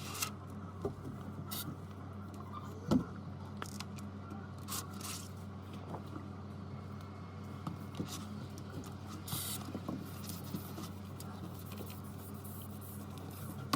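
Scattered light clicks and taps, with one louder knock about three seconds in, over a steady low electrical hum.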